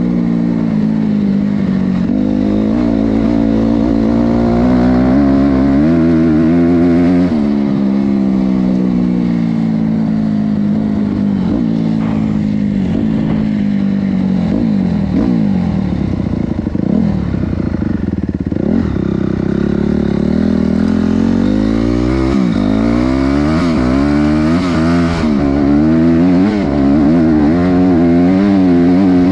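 Honda CRF250R's four-stroke single-cylinder engine revving hard, its pitch climbing and dropping again and again. Near the end there is a run of quick rises and falls in pitch.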